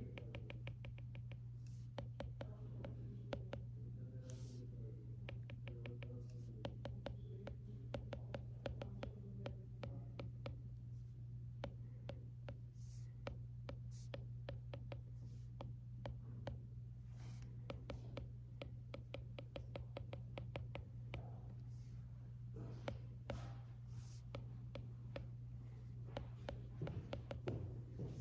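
Stylus tapping and scratching on an iPad screen while notes are written, as a run of light irregular clicks. Under it runs a steady low hum of room ambience.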